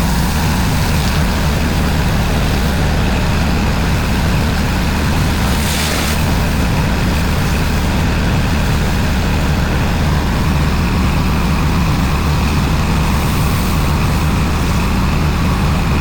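Pressure washer running steadily: a constant engine drone with a hiss over it.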